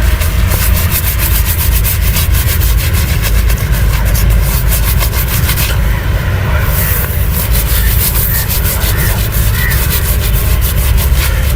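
Close-miked razor scraping through chest hair in quick, short strokes over a steady low rumble. The strokes let up briefly about six seconds in.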